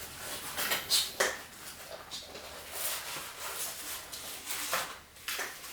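Handling noise from the plastic stick vacuum being moved about: a few short rustles and light knocks, about five, spread over the few seconds.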